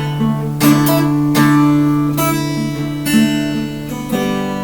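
Acoustic guitar being strummed, chords ringing out with a new strum roughly every second.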